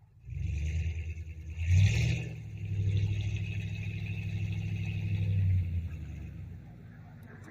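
Ford 5.4-litre V8 of a 2000 F-150 revved up sharply and held steady at the 5,100 rpm rev limiter for about three seconds, then let back down toward idle near the end.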